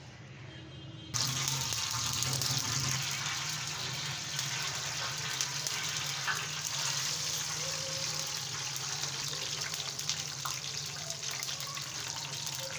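Stuffed paratha shallow-frying in hot oil in a pan: a steady sizzle that starts suddenly about a second in.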